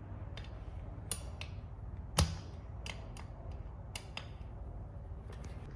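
Scattered light metallic clicks and taps, with one louder knock a little over two seconds in, from refitting a bicycle brake disc onto the wheel hub with its screws and a screwdriver.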